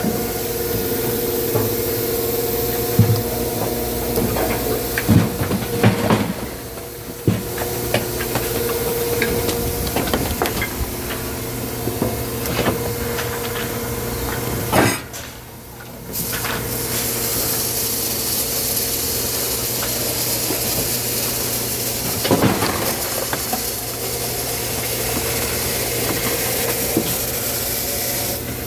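Firewood-processing machinery running steadily with a hum and a high hiss, with scattered knocks of wood. The noise drops off briefly twice, about a third and about halfway through.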